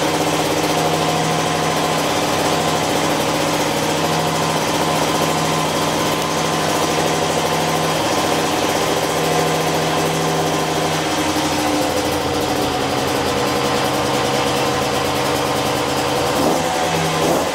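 Honda NSR125's single-cylinder two-stroke engine idling steadily through an aftermarket Giannelli Street exhaust while warming up after a cold start, with a brief rise in revs near the end.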